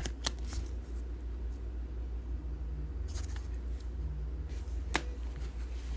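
Trading cards being handled and flipped through: soft rustling with a few sharp clicks over a steady low hum.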